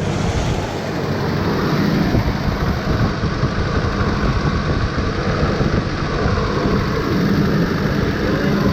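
1970 Chevelle's V8 idling steadily, just fired up on a freshly installed Holley Sniper throttle-body EFI and still cold, before the system starts self-tuning.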